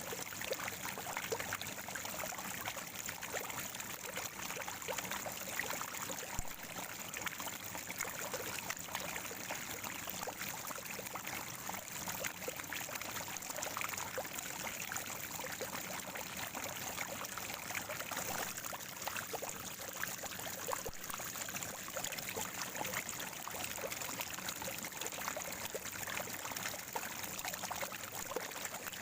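Natural spring water gurgling and trickling steadily, with many small irregular splashes.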